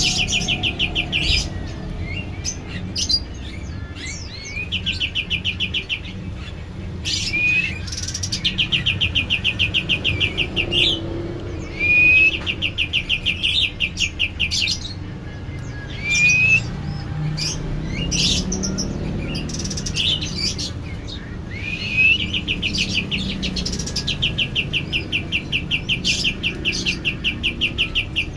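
A caged songbird kept as a masteran (song tutor) singing: bouts of a fast, even, high-pitched trill lasting a few seconds each, several of them opening with a short rising whistle, repeated again and again with short pauses between.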